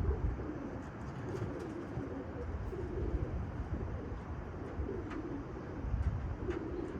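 Domestic pigeons cooing, soft low coos coming in several spells over a steady low background rumble.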